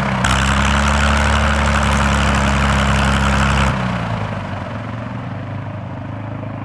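Propeller aircraft's piston engine running steadily and loudly. Near the middle it cuts suddenly to a quieter, lower-pitched engine sound.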